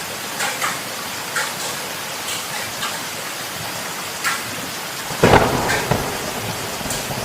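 Heavy rain falling steadily, with scattered sharper drops ticking through it. A sudden clap of thunder breaks in about five seconds in and fades over about a second.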